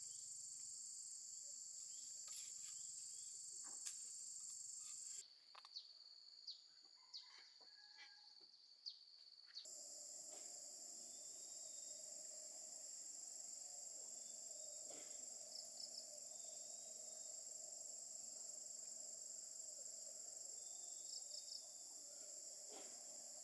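Steady high-pitched chorus of insects. It drops out for about four seconds partway through, leaving only a few soft clicks and knocks, then resumes with a lower steady hum joining it.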